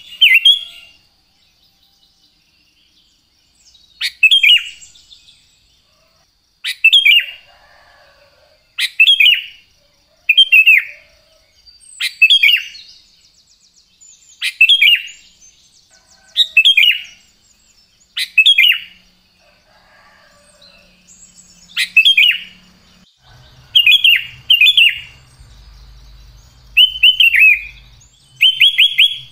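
Sooty-headed bulbul (kutilang) singing: loud, short whistled phrases that sweep downward, repeated about every two seconds, some given as quick doubles.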